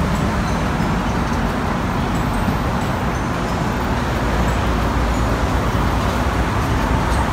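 Steady roar of Barron Falls in flood, heavy rushing water with a deep low rumble.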